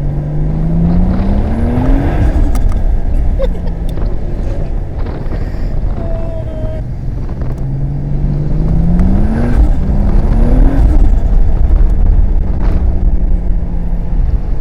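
Car engine accelerating, its pitch rising in a long sweep near the start and again in two shorter sweeps past the middle, over a steady low rumble.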